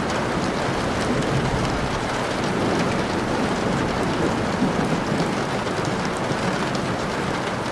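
Steady rain ambience: an even wash of rainfall with a low rumble beneath and fine drop ticks on top.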